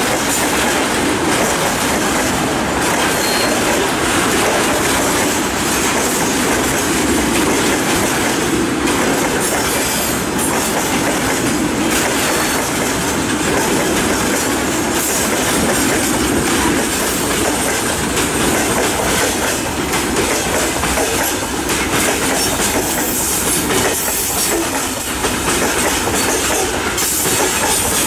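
Freight train of tank cars and open gondola wagons rolling past close by: a loud, steady rumble of steel wheels running on the rails.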